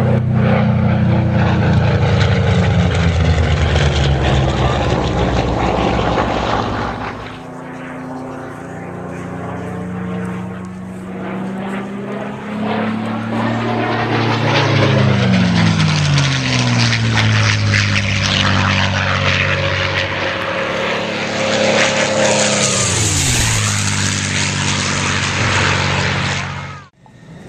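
Propeller aircraft engines running loudly in flight, their pitch dropping as aircraft pass by about halfway through and again near the end. The sound cuts off suddenly just before the end.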